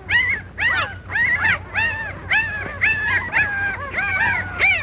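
Puppies whimpering and yipping: a quick stream of short, high-pitched squeals that rise and fall, several overlapping, a few each second.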